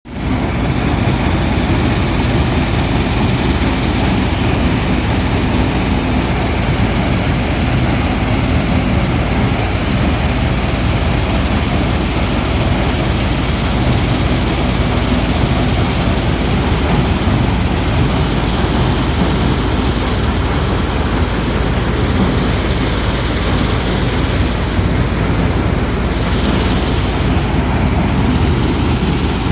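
Heavy engine, likely a tractor's, running steadily, with a dense rushing noise over its low hum.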